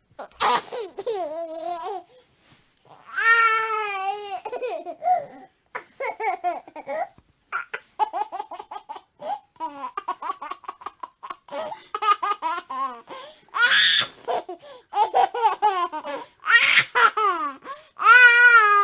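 Babies laughing: high-pitched giggles and bouts of rapid, breathy laugh pulses, some drawn out into squeals, with gaps in between.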